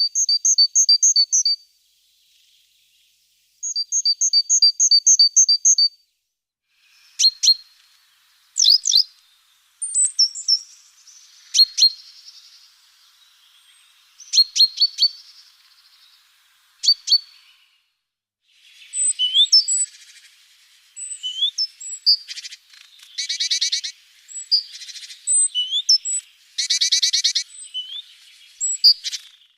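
Small birds calling: two fast trains of high, evenly repeated chirps, then sharp downward-sweeping call notes, and in the second half several dense buzzy trills mixed with quick sweeping chirps.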